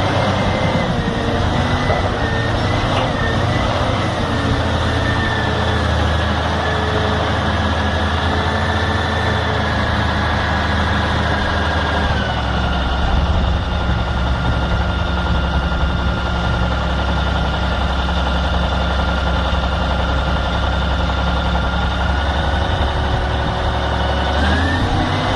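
Heavy vehicle engine running steadily, with a high thin whine over the low drone. The whine drops in pitch about halfway through and climbs again near the end.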